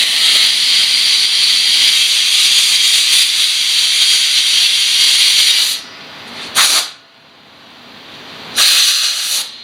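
A pressurised jet hissing loudly and steadily. It is shut off about six seconds in, then let go again in two short blasts, the second about a second long.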